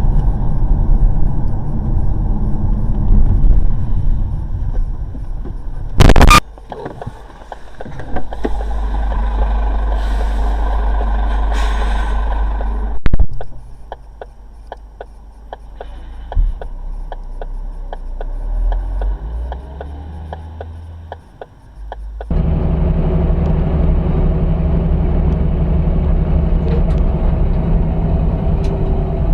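Vehicle engine and road noise from dashcams, changing abruptly across several short clips. There is a loud bang about six seconds in and another sharp bang about thirteen seconds in, typical of collisions in crash footage.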